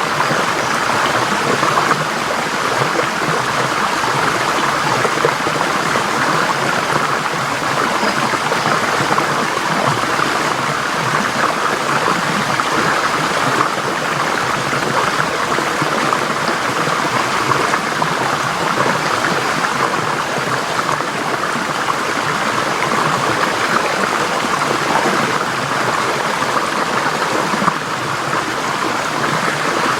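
Forest stream flowing steadily over rocks: a constant, even rush of water with a bright babble.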